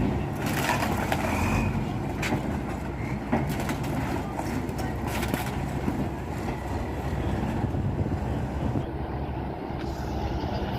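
Heavy Tatra truck-trial truck's engine running with a steady deep rumble, broken by a few short harsh noisy bursts in the first half.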